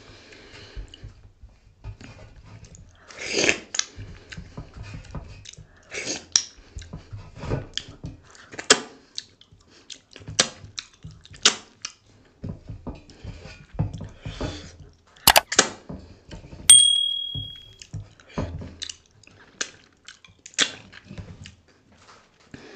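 Close-miked chewing of a mouthful of dhido and sisnu, with wet mouth clicks at irregular intervals. A short high-pitched tone sounds about three-quarters of the way through.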